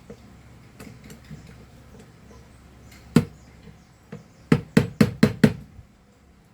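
Hammer tapping on the small locking tabs of a handheld vacuum motor's brush holders to bend them inward: one sharp tap about three seconds in, then a quick run of five taps a second or so later, with light clicks of handling before them.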